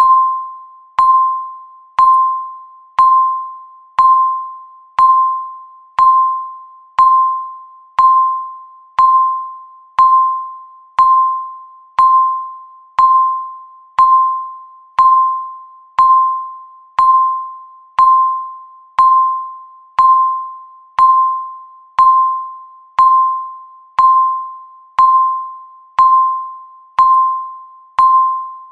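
Electronic countdown-timer beep: a short pitched tone with a sharp onset that fades away quickly, repeating exactly once a second to mark each second counting down.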